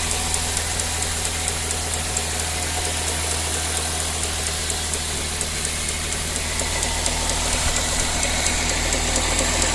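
A 2000 Toyota Celica GT's 1ZZ-FE four-cylinder engine idling with a quick, even ticking from the belt and accessory end. The uploader found the tick was caused by a partially ripped serpentine belt.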